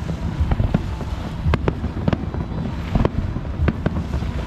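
Aerial fireworks display: irregular sharp bangs and crackles of shells bursting, about two or three a second, over a continuous low rumble.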